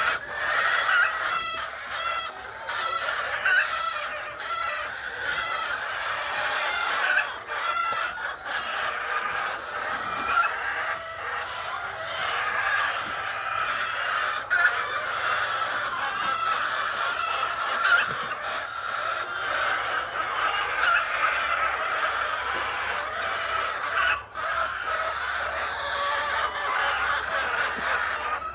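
A flock of chickens clucking, many birds calling over one another without a break.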